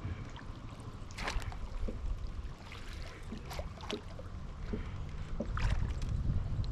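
Small splashes and trickles of water and light knocks around a kayak hull, over a low wind rumble on the microphone that grows louder near the end.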